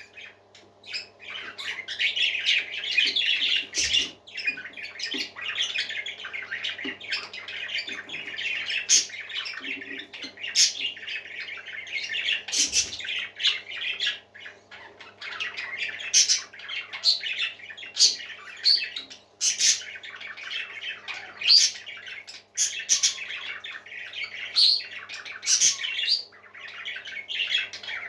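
A group of parakeets chattering and warbling continuously, broken by frequent sharp squawks and chirps.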